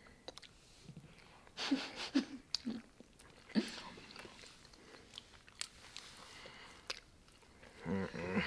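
People biting and chewing mouthfuls of a fried chicken tender sandwich: quiet, wet mouth sounds and small clicks, louder for a moment about two and three and a half seconds in.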